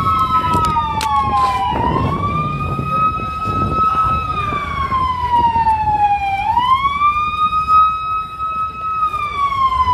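Police siren wailing: a high tone that climbs quickly, holds, then slides slowly down, repeating about every four to five seconds, with a few sharp knocks in the first two seconds.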